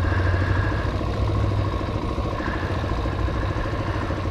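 Hawk 250 motorcycle's single-cylinder engine running steadily under way, with wind noise over it.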